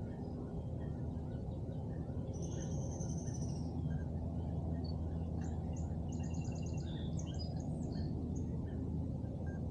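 Songbirds calling, with short chirps and a few quick trills, over a steady low rumble.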